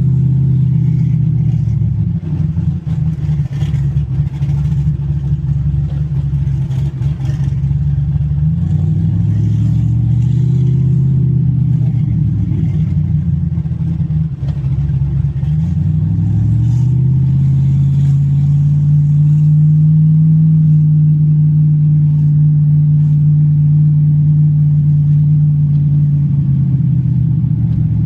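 Car engine running under way, its pitch climbing twice as the car accelerates, then holding at a steady cruise.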